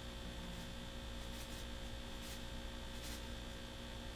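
Steady low electrical hum, with faint even hiss behind it.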